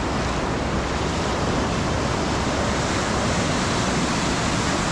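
Ocean surf washing onto a beach in a steady roar, with some wind on the microphone.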